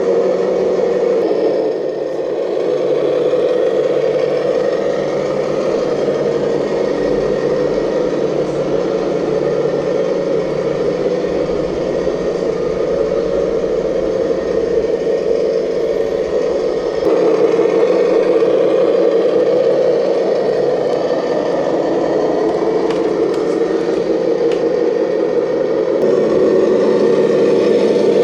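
Radio-controlled model construction machine running: a steady engine-like drone with a motor whir, growing louder about two-thirds of the way in and again near the end.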